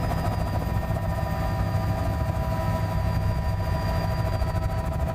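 Steady low engine rumble with several constant whining tones above it, unchanging throughout.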